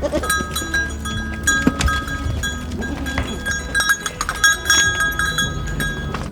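Livestock bells clinking and ringing irregularly, many short overlapping metallic tones, over a low steady rumble.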